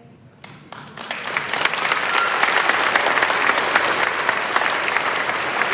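Audience applause, starting with a few scattered claps and swelling about a second in to a full, steady round of clapping.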